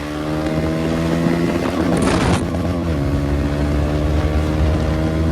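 KTM 390 Duke's single-cylinder engine running with no exhaust silencer, its pitch slowly climbing as the bike accelerates. About three seconds in the pitch drops with an upshift, then climbs again; a brief rush of noise comes just before.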